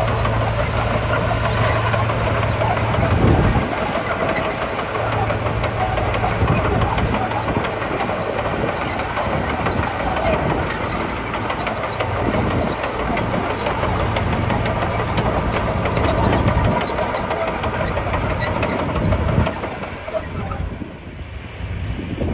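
Komatsu D41P crawler bulldozer working gravel: its diesel engine runs with a steady low hum, along with clatter and short high squeaks from the steel tracks. The sound drops off about twenty seconds in.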